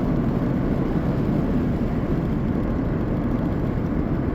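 A car driving along at a steady speed: constant engine and tyre road noise, a low rumble with no changes.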